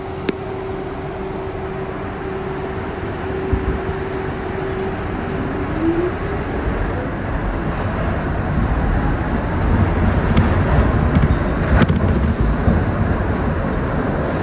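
Kawasaki R62 subway train running and picking up speed: a steady tone gives way about five seconds in to a whine rising in pitch, and the low rumble of wheels on track grows louder, with a few sharp clicks.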